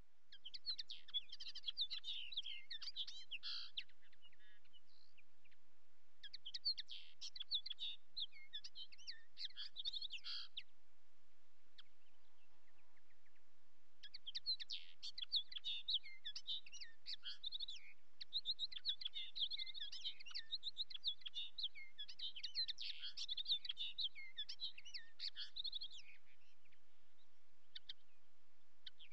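Songbird twittering in three long phrases of rapid, high chirps; the last phrase is the longest, and there are pauses between the phrases.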